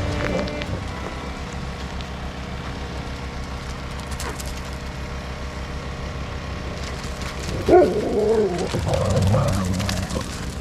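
A steady low rumble, then from about eight seconds in, short animal whines and yips that rise and fall in pitch.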